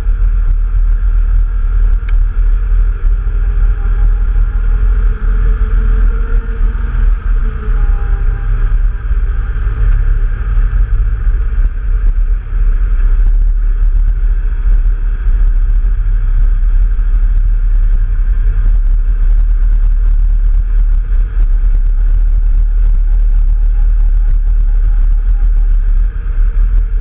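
Off-road vehicle engine running while riding a trail, its pitch rising and falling with the throttle over a heavy, steady low rumble.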